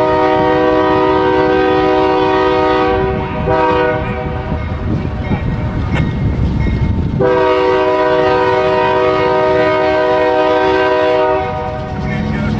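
Diesel freight locomotive's multi-note air horn sounding: a long blast ending about three seconds in, a short blast right after, then another long blast of about four seconds, over the low rumble of the passing train.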